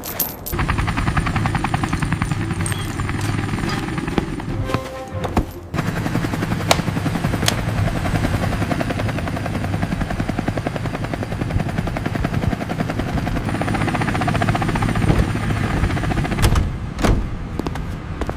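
Cartoon tractor engine chugging in fast, even pulses, over background music. It drops out briefly about five seconds in and stops shortly before the end.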